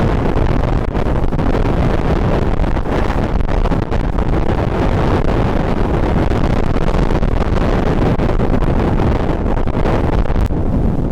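Strong wind buffeting a microphone despite its furry windshield: a steady, heavy rumble that does not let up.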